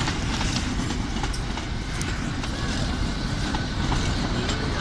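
Virgin Azuma high-speed train rolling slowly past along the platform: a steady low rumble with a few sharp clicks.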